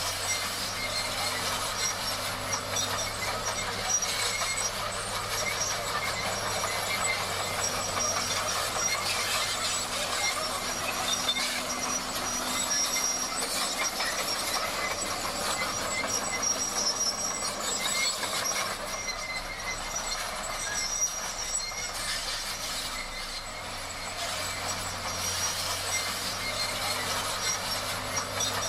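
Crawler bulldozer working: a steady engine hum under the clatter and squeal of its steel tracks.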